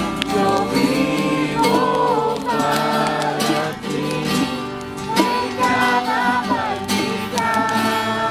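Christian worship song: singing over acoustic guitar accompaniment.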